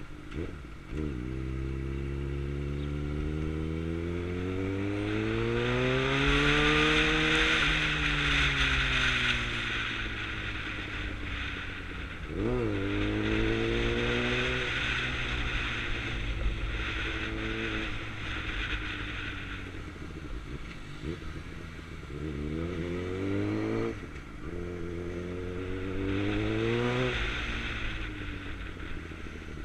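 Suzuki GSX-R600's inline-four engine on the move, its revs climbing and falling away several times as the rider accelerates and shifts, with a hiss that grows at the higher revs.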